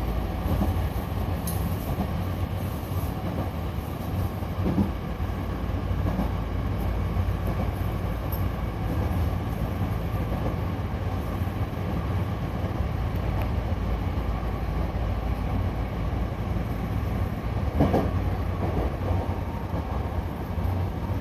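Hankyu electric commuter train running at speed, heard from inside the car: a steady rumble of wheels on rails with a couple of sharp knocks.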